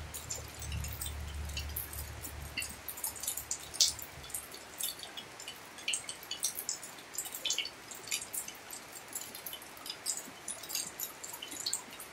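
Rain falling on paving and garden plants: a steady hiss with many sharp, irregular drips. A low rumble in the first few seconds fades away.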